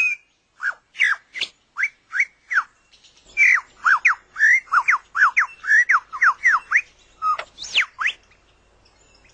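Superb lyrebird singing: loud, sharp whistled notes sweeping up and down in pitch, a few spaced ones first, then a fast run of them from about three seconds in, and a couple of longer sweeping notes near the end.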